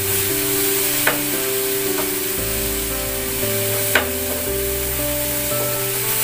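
Onion, tomato and crushed ginger, garlic and green chilli sizzling in oil in a pan while a spatula stirs them, sautéed until the raw ginger-garlic smell cooks off. The spatula clicks sharply against the pan about a second in and again about four seconds in.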